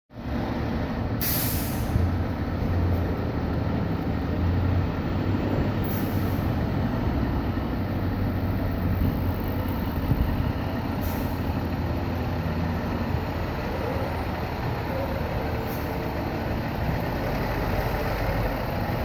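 Fire engine's diesel engine running steadily, with four short hisses of air from its air brake system spaced about every five seconds.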